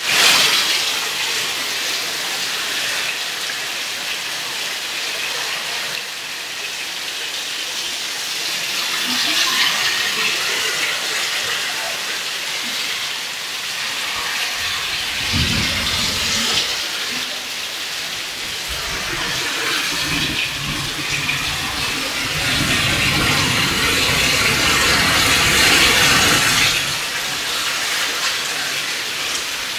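Heavy rain falling steadily, a dense hiss that grows louder and deeper from about halfway through.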